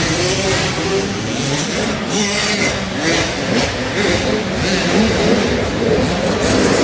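Several small dirt-bike engines revving, their pitch rising and falling as the youngsters race around an arenacross track.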